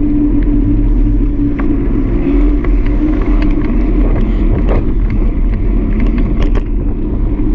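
Ride noise from a GoPro mounted on a bike in motion: a steady, loud rumble with a constant hum, and scattered clicks and rattles from bumps along the way.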